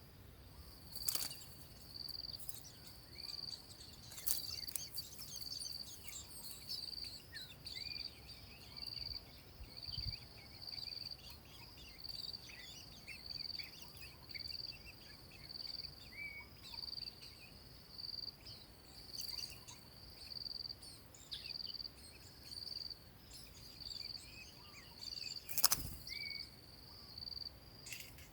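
An insect chirping high and steadily in an even rhythm, about four chirps every three seconds, with faint short bird chirps scattered through and a few sharp clicks, the loudest near the end.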